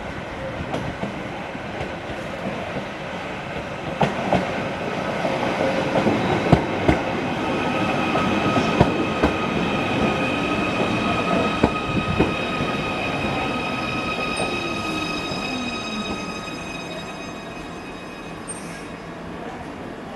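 A train running on the rails, its wheels clicking over rail joints, with a steady high-pitched squeal through the middle and a lower tone falling in pitch. It grows louder, then fades over the last few seconds.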